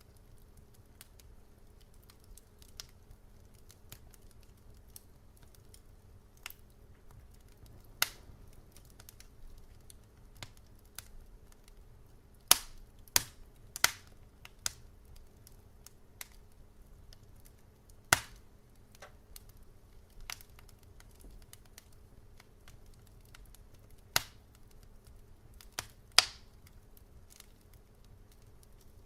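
Wood fire crackling: scattered sharp pops and snaps every second or two, a few much louder cracks among them, over a faint steady low hum.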